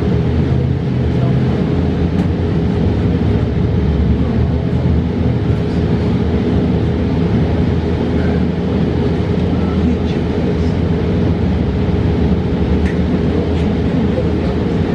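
Interior ride noise of a 2022 New Flyer XE40 battery-electric city bus under way: a steady low road rumble with a constant hum.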